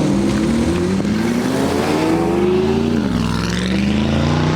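Car engine accelerating under load: its pitch climbs steadily, drops sharply about three seconds in at a gear change, then climbs again.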